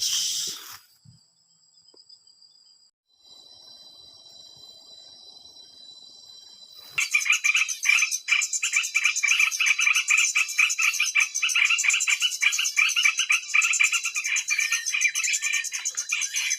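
A brief rustle, then a steady high insect drone, and about seven seconds in, loud, rapid, chattering bird calls start abruptly and go on without a break.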